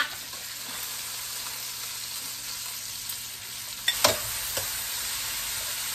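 Seasoned beef with garlic, onions and cilantro sizzling and frying in a skillet, stirred with a spatula. Near the end the spatula knocks against the pan twice.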